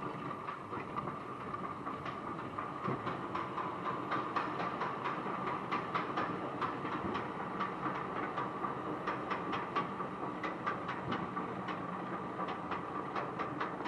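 Spinning rollercoaster cars running along their steel track: a steady hum under a run of sharp clicks and clatters that come thicker in the second half.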